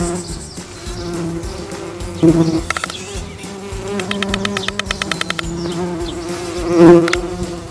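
Cartoon buzzing of insects, a bee and a housefly, as a steady low drone. A fast run of clicks comes about four seconds in, and a short louder burst near the end.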